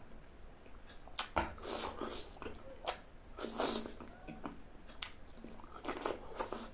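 Close-miked eating sounds: chewing and lip-smacking on soft, juicy fruit, in several irregular wet bursts and clicks.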